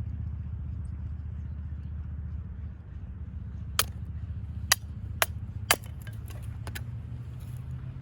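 Car engine idling with a steady low rumble, and a run of sharp clicks and knocks in the second half.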